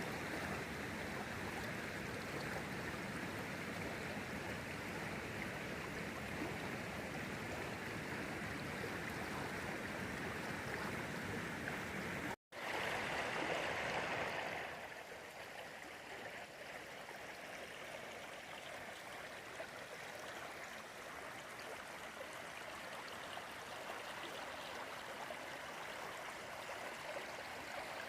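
Creek water flowing in a steady rush. About halfway through it drops out for an instant, swells briefly, then carries on more softly.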